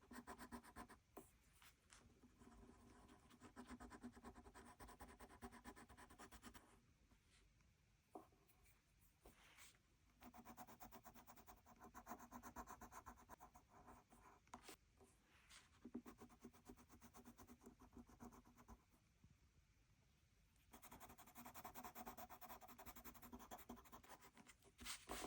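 Faint scratching of a coloured pencil shading on paper, in several stretches of quick back-and-forth strokes with short pauses between them.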